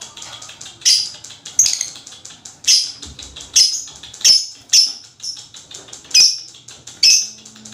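Lovebird calling: sharp, high-pitched chirps roughly once a second over a fast, continuous chatter, the long 'ngekek' chattering used to stir other lovebirds to call.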